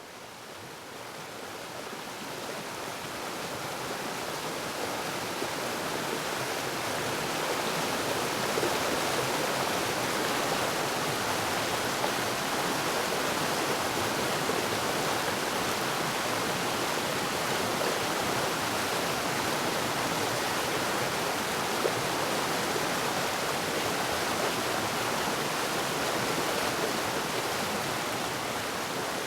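Waterfall rushing as a steady roar of falling water, fading in from silence over the first several seconds and then holding level.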